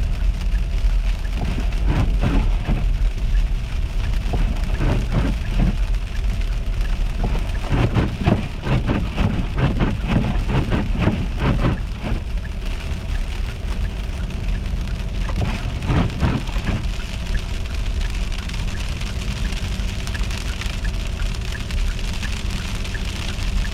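Icy rain striking surfaces in irregular ticks and taps, denser in the first half, over a steady low rumble.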